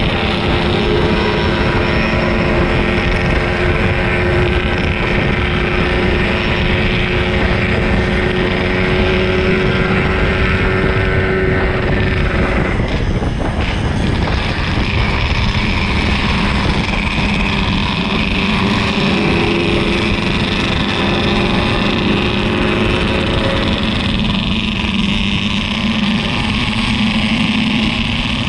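Yamaha RX-King 135's single-cylinder two-stroke engine running under way while the motorcycle is ridden, with wind noise on the microphone. The engine note dips briefly about halfway through, then picks up again.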